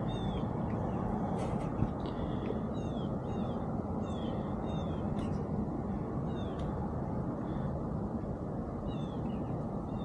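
A bird chirping repeatedly, short falling chirps coming irregularly about once a second, over a steady low rumble of background noise. A single sharp click a little under two seconds in.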